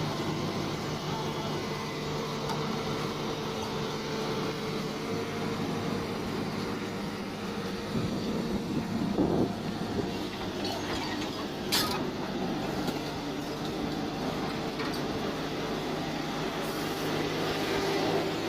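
Mini excavator's engine running steadily while digging, with a louder knock a little before the middle and a sharp click a little after it.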